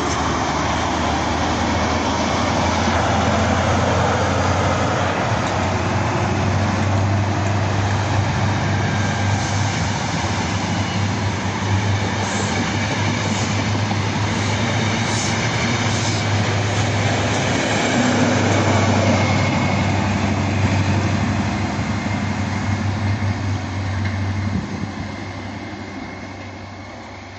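Class 43 HST power car's diesel engine and the train's wheels on the rails as a GWR High Speed Train passes, a steady loud rumble with an engine hum underneath. It swells again about two-thirds of the way through, then fades as the train pulls away near the end.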